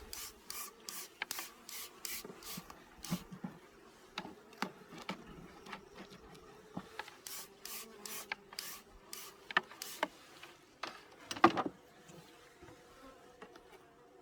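Honeybees buzzing at an opened hive, a low steady hum, under runs of quick rasping strokes from the frames being worked, about three a second in two spells. One louder knock about eleven and a half seconds in.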